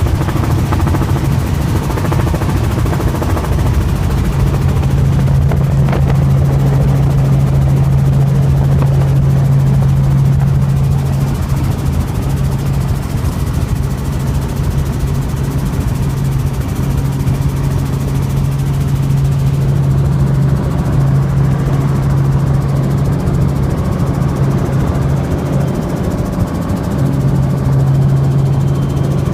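Helicopter engine and rotor noise: a loud, steady drone with a strong low hum that grows stronger for stretches and then eases back.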